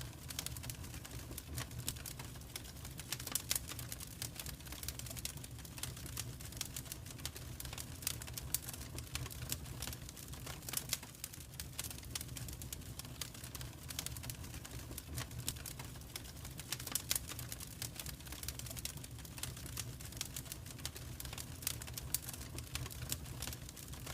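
Wood fire crackling in a fireplace: dense, irregular crackles with a few louder pops, over a steady low rumble of the flames.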